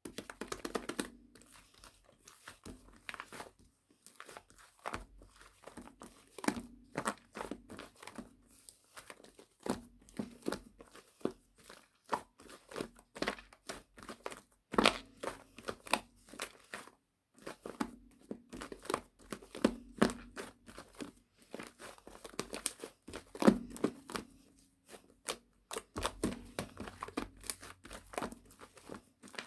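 Irregular crinkling and rustling with many small clicks, like something being handled or crumpled close to the microphone.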